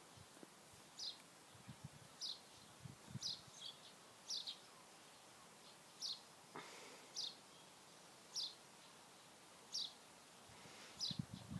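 A small bird repeating a short, high chirp that sweeps quickly downward, roughly once every second or so.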